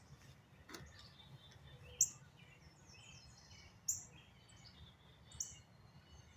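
A small bird chirping: short, high-pitched notes about every two seconds, over faint outdoor background noise.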